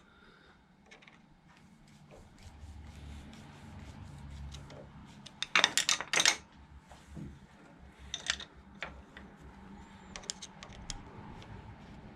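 Hand tools working on metal: scattered light metallic clicks and clinks, with a loud cluster of rattling clinks about halfway through and another sharp clink a couple of seconds later.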